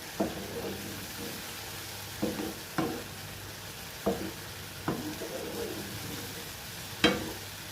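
Mushrooms sizzling in oil in a frying pan while being stirred, a utensil knocking against the pan about six times, the sharpest knock near the end.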